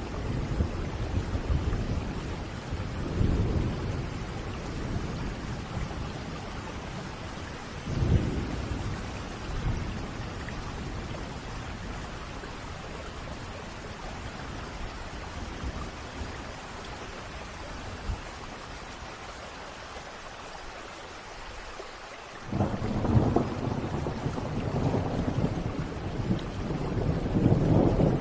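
Thunderstorm: steady rain with rolling thunder. A few low rumbles come in the first ten seconds, then after a quieter stretch a sudden loud clap of thunder about 22 seconds in rolls on and builds toward the end.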